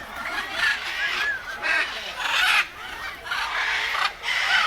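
Macaws squawking: harsh, raspy calls repeating every second or so.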